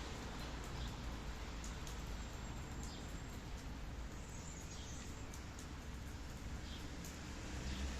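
Steady rain falling, an even hiss with scattered drip ticks over a low rumble, and a few faint high bird chirps.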